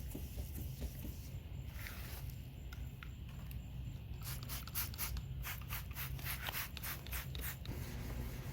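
Wet sandpaper being rubbed by hand across a plastic headlight lens, 1500 grit with soapy water, to cut away the foggy, faded surface. About halfway in, it turns into quick back-and-forth strokes, about four a second, over a steady low rumble.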